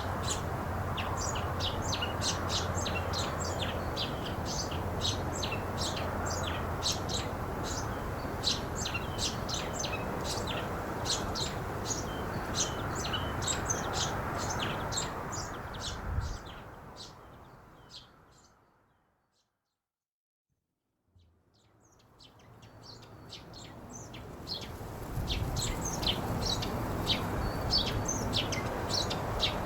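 Many small birds chirping rapidly over a steady rush of ocean surf. Partway through, it all fades out to silence for a couple of seconds, then fades back in.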